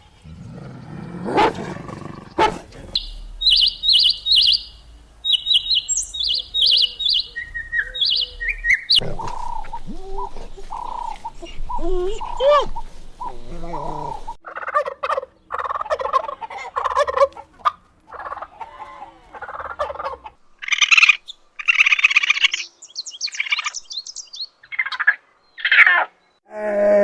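A series of different bird and poultry calls one after another: high, quick chirping in the first few seconds, lower fowl calls through the middle, and high shrill calls near the end.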